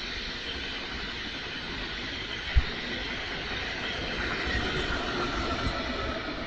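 A train running past on the tracks: a steady rush of wheels on rails, with a single low thump about two and a half seconds in and a faint whine in the second half.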